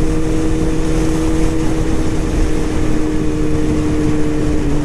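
Honda CBR600 F4i inline-four sport bike engine cruising at a steady pitch, with road and wind noise.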